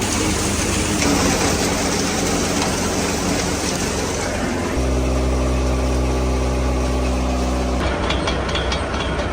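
Massey Ferguson 385 tractor's four-cylinder diesel running steadily under load, driving a belt-powered mustard thresher, with the thresher's mechanical noise mixed in. About five seconds in the sound settles into a steadier, clearer hum for a few seconds. Near the end it turns rougher, with quick clicking.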